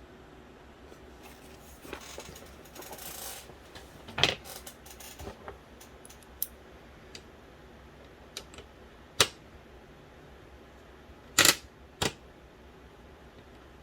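Small plastic and metal parts of a DVD drive being handled during disassembly. There are scattered sharp clicks and knocks as pieces are unclipped and set down, with a short rustle about two seconds in. The loudest clicks come about four, nine and eleven seconds in.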